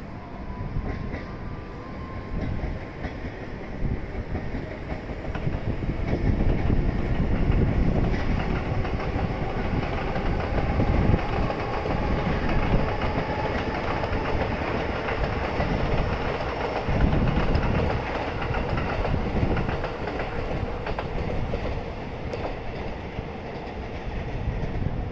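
A JR train passing along the tracks below. Its rumble builds about five seconds in and eases off near the end.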